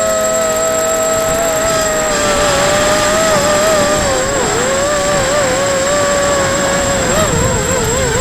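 Eachine Racer 250 quadcopter's electric motors and propellers whining in flight in strong wind, the pitch wavering up and down as the motors correct, most about halfway through and near the end.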